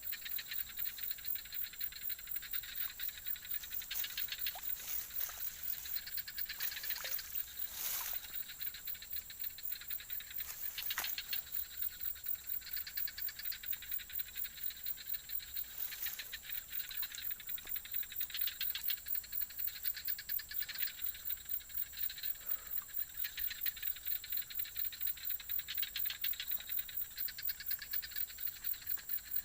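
Chorus of calling frogs and insects in wet fields after rain: a steady rhythmic pulsing of about three pulses a second over a constant high ringing, with a few faint clicks along the way.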